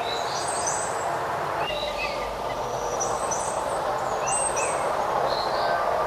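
Several small songbirds chirping and whistling in short repeated calls over a steady background hiss of outdoor noise.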